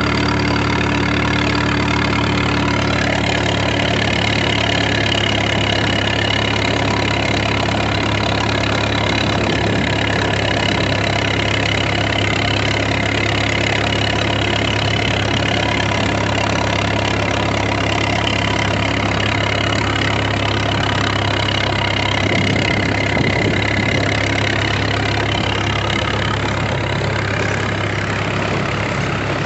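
Engine running steadily at idle, an even, unbroken engine note.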